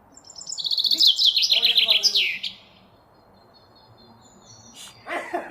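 A bird gives a fast run of high chirps for about two seconds, the notes stepping down in pitch toward the end. A person's voice comes in near the end.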